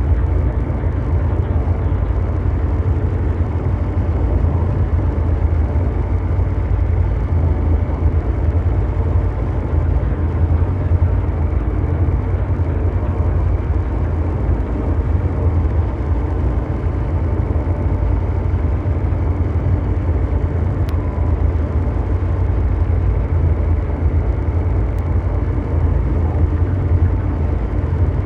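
Ambient mechanical drone noise: a steady, unchanging deep rumble with faint hums held above it.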